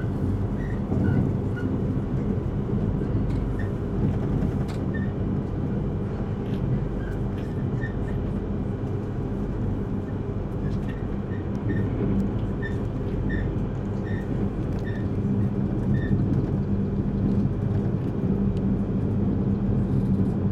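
Inside the passenger cabin of a Yamagata Shinkansen E3 series train running on the line as it climbs a grade: a steady rumble of running noise with a low hum. Faint short squeaks and light clicks come through now and then over the rumble.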